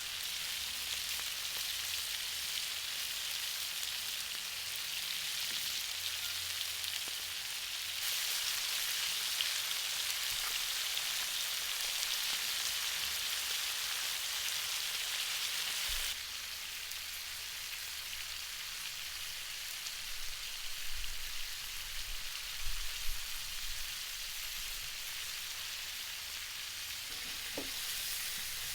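Food sizzling as it fries in hot fat, a steady hiss that steps louder about a third of the way in and drops back just past halfway. A few soft low knocks come about three-quarters of the way through.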